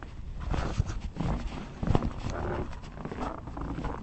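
Footsteps crunching and squeaking in freshly fallen snow, an irregular run of crunches, the loudest about two seconds in.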